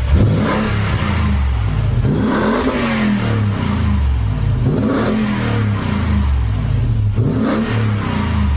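Toyota Tundra 5.7-litre V8 running through a Banks Monster aftermarket exhaust, revved four times, each rev climbing quickly and settling back down.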